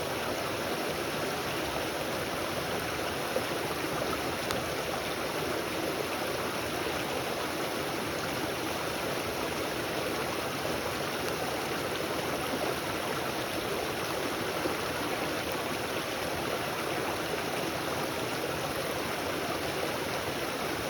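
Steady rushing of a stream, a constant even wash of flowing water with no change in level.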